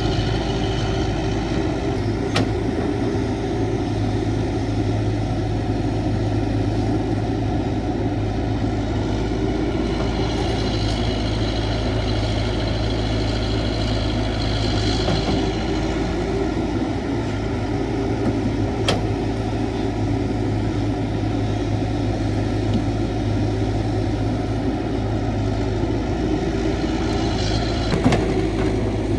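CAT 312 hydraulic excavator's diesel engine running steadily while digging. A higher whine comes and goes in the middle, and there are a few sharp knocks.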